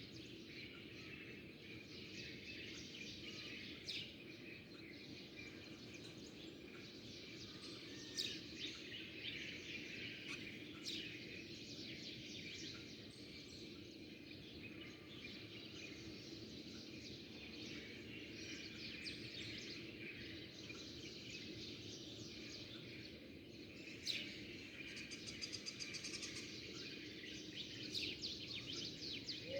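Small songbirds chirping and twittering over a steady background hiss. A few sharper calls stand out now and then, and a quick trill comes near the end.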